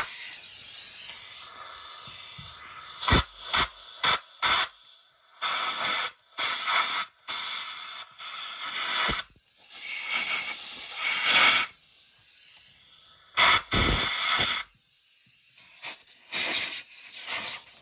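Repeated bursts of hissing spray, each about half a second to a second long, separated by short pauses. A steady hiss runs for the first two seconds.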